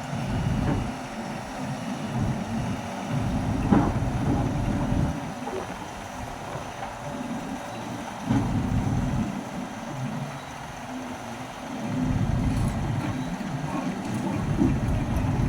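Caterpillar 320D excavator's diesel engine running under heavy wind buffeting on the microphone, with a sharp knock about four seconds in and a smaller one later.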